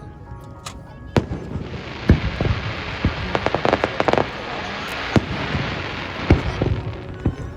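Fireworks going off: several sharp bangs of shells bursting, with a long crackling hiss of crackle effects from about a second and a half in until near the end, densest about three to four seconds in.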